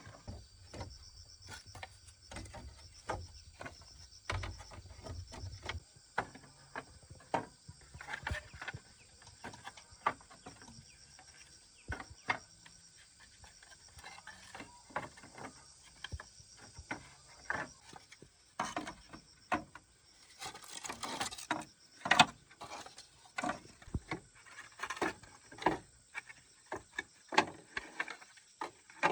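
Irregular sharp knocks and taps of hand work on wood, coming thicker and louder in the second half, with a faint steady high hum in the first few seconds.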